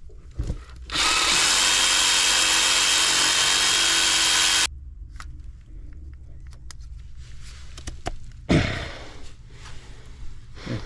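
A power tool runs steadily for nearly four seconds, then cuts off abruptly. It is followed by scattered light clicks and one sharp knock near the end.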